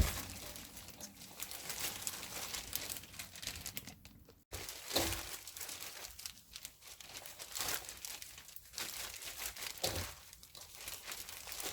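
Chives being tossed and rubbed by hand in kimchi seasoning, giving an uneven crinkling, rustling sound with small crackles. It breaks off for a moment about four seconds in.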